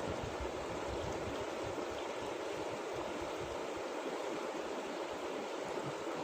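Steady rushing of flowing water, an even unbroken wash of noise.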